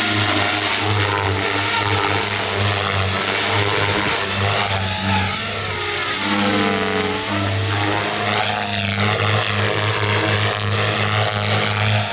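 HD Cell 500 electric RC helicopter flying. Its rotor drone is joined by motor whine that rises and falls in pitch a few times.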